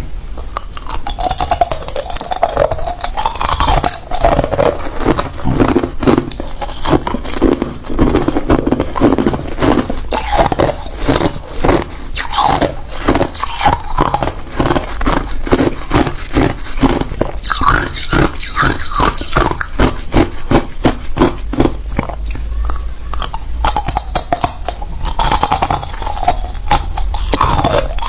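Hard ice cubes being bitten and chewed: a dense, irregular run of loud crunches and cracks.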